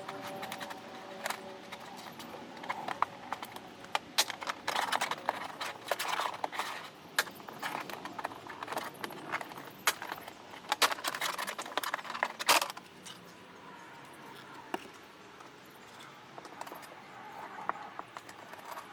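A dashcam cable being worked through plastic trim and a rubber cable housing by hand: irregular clicks, scrapes and rustles. They stop about twelve seconds in, leaving only a few faint clicks.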